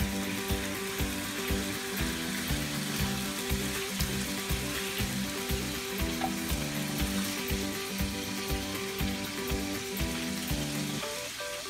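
Skin-on chicken pieces sizzling as they brown in a frying pan. Music with a steady beat plays underneath and changes near the end.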